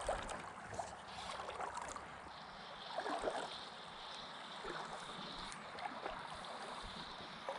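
Water of a small creek running steadily, with a few brief louder sounds right at the start and about three seconds in. A faint, high, steady tone is heard for a few seconds in the middle.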